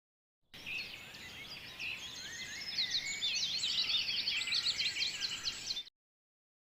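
Many small birds chirping and calling at once, a busy overlapping chorus of high chirps and quick whistled sweeps over a faint background hiss. It starts about half a second in, gets busier partway through and cuts off abruptly near the end.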